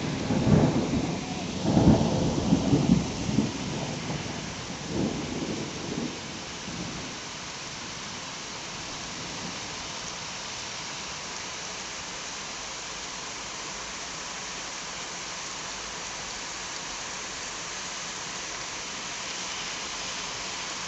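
Thunderstorm: a peal of thunder rumbling through the first few seconds and dying away, then steady heavy rain.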